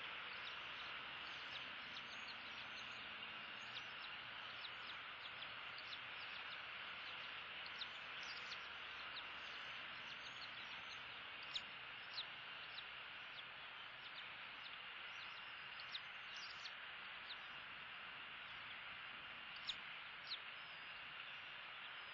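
Outdoor ambience: an even hiss with many short, high bird chirps scattered through it, the sharpest ones about halfway through and near the end.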